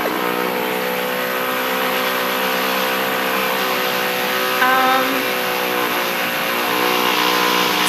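Construction drilling in the building: a loud, steady machine drone that holds one pitch, with a brief higher tone about halfway through.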